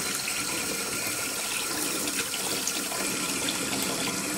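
Bathroom sink tap running steadily into the basin, with small splashes in the stream.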